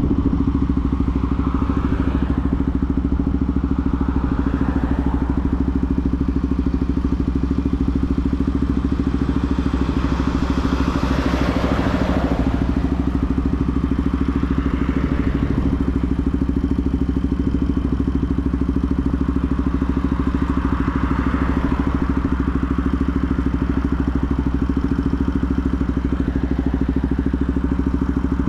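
Benelli TNT 125's single-cylinder four-stroke engine running at a steady speed, its pitch unchanging. A few swells of rushing noise rise and fade over it, the loudest about eleven seconds in.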